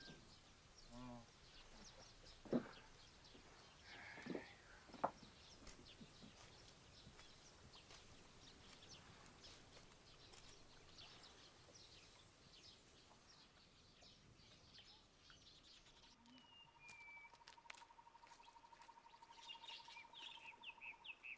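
Faint outdoor ambience of scattered bird chirps, with a few soft knocks in the first five seconds. About three-quarters of the way in, a steady, rapid, evenly pulsing trill starts, and a cluster of chirps follows near the end.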